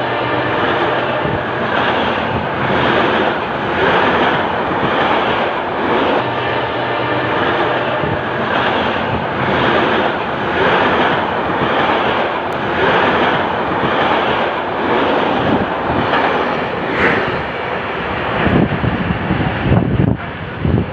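Train passing through a station at speed without stopping: a loud, continuous rumble of wheels on rails with a regular beat about once a second as the carriages go by. The beat breaks up near the end as the train clears, and the noise drops away.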